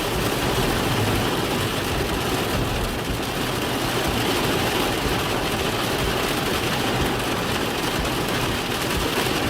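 Heavy thunderstorm rain pouring steadily on a vehicle, a dense even rush with no let-up.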